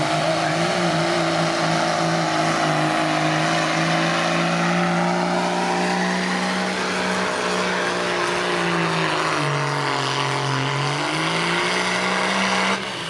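A pulling vehicle's engine running hard under load during a pull, holding a steady high pitch. The pitch sags about nine and a half seconds in and climbs back, then the sound stops abruptly near the end.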